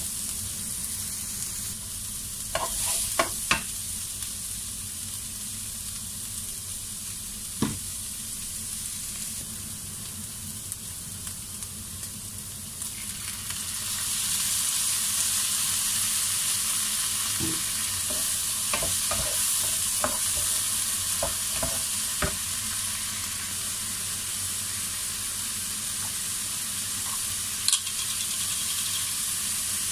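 Diced vegetables sizzling in a nonstick frying pan as they are stir-fried, the wooden spatula knocking and scraping against the pan now and then. About halfway through the sizzle gets louder as a dark sauce is poured onto the hot vegetables.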